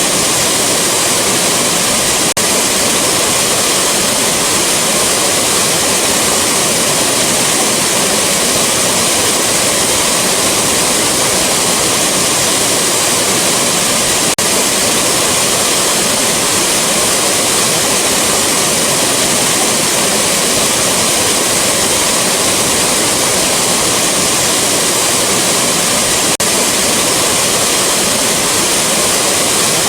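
Rushing waterfall: a loud, steady roar of falling water with no change, broken only by faint, brief dips about every twelve seconds where the recording loops.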